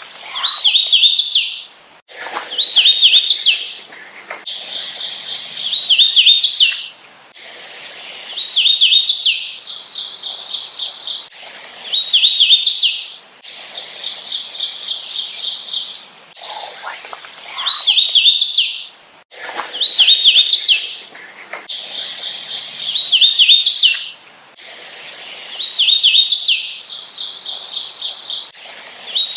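Hooded warbler singing its clear, slurred song of rising notes, repeated about every three seconds. Between songs a quieter, fast run of evenly repeated notes can be heard.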